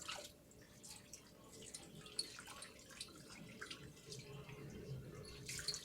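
Faint, irregular dripping and splashing of water as a wet cat is washed by hand in a bath.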